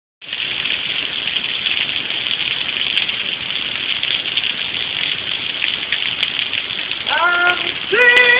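Steady rain hissing down. About seven seconds in, a voice starts singing held notes over it.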